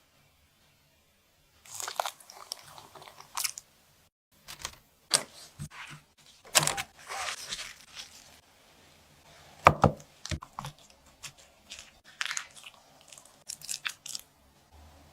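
Crisp food being crunched and chewed close to the microphone, in irregular bursts with a few sharp cracks.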